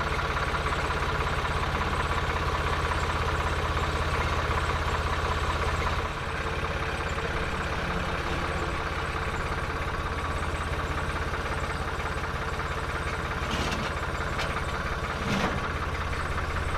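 A heavy machine engine idling steadily, its level dropping slightly about six seconds in, with a couple of short knocks near the end.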